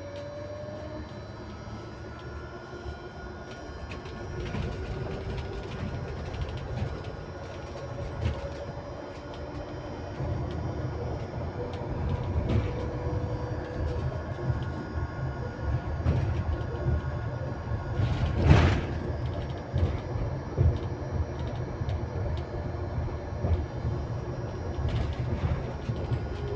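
Ride inside an electric bus: steady low road rumble under several thin, constant-pitch electrical tones, with a softer motor whine gliding up and down as the bus speeds up and slows. One loud thump about eighteen seconds in.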